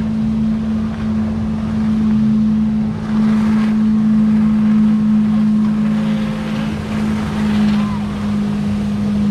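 Boat engine running at a steady speed: an even, unchanging hum over a low rumble, with wind on the microphone.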